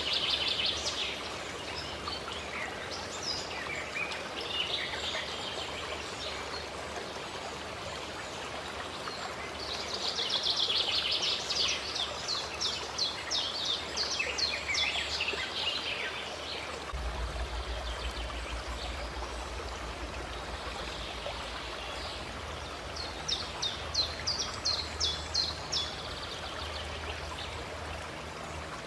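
Water running steadily, like a small fountain or stream, with songbirds singing over it in several bouts of rapid trilled notes.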